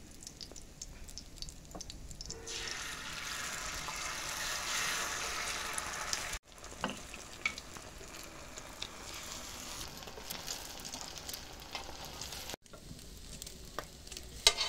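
Shami patties frying in oil on a flat iron tawa. About two and a half seconds in, eggs hit the hot centre of the tawa and a loud burst of sizzling starts. After that it settles to a steadier frying sizzle, with a few sharp clicks of metal spatulas on the tawa near the end.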